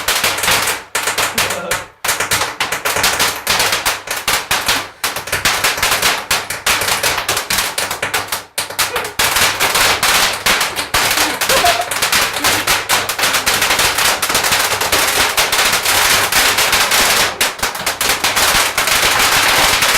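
A firework going off on a basement floor: a long, rapid barrage of loud bangs and crackles, many a second, with brief lulls about 2, 5 and 8 seconds in.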